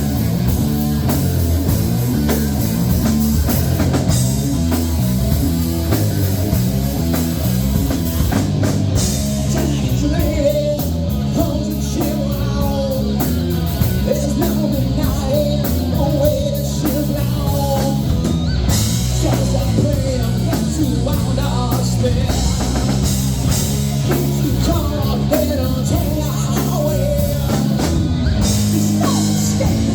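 A rock band playing live, with a drum kit, bass and electric guitar and a singing voice, loud and steady throughout.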